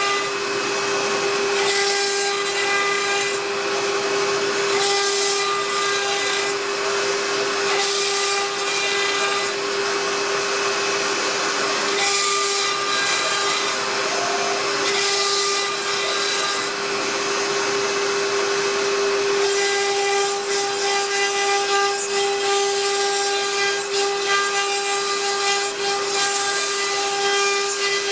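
CNC router spindle whining steadily at one pitch while its cutter mills a carbon fibre sheet, the hissing cutting noise swelling and fading as the tool moves along its path.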